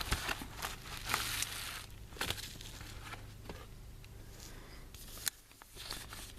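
Package being opened by hand: paper wrapping crinkling and rustling, with scattered sharp clicks, busiest in the first two seconds and then sparser.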